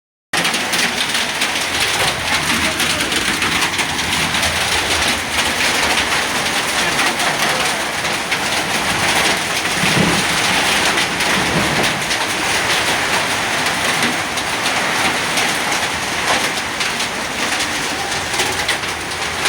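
A hailstorm with heavy rain: a steady, dense hiss of countless small impacts from hailstones and rain hitting the ground and surfaces.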